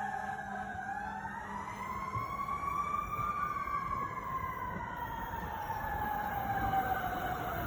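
An emergency vehicle's siren wailing, its pitch slowly rising and falling over a low rumble, with a second wailing line briefly overlapping near the start.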